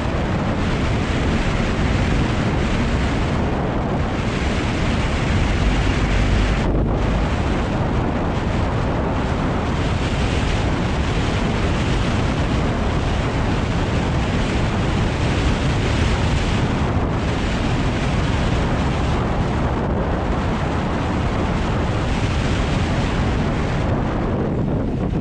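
Wind buffeting the microphone and tyre and road rumble right at the front wheel of a LADA Vesta SW Cross driven fast over a rough, bumpy road, with the front suspension working over the bumps. The updated SAAZ struts give no knocks, only a dull, soft response.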